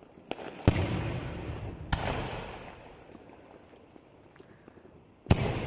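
Aerial firework shells bursting: a small crack, then three loud booms at intervals, under a second in, about two seconds in and near the end, each trailing off in a rumbling crackle.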